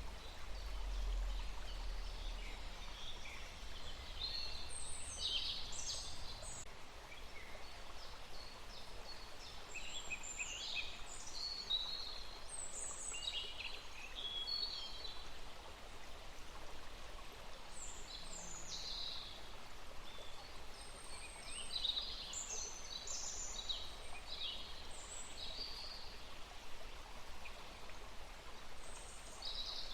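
Songbirds chirping and trilling in short, repeated bursts of high calls, over a steady background hiss.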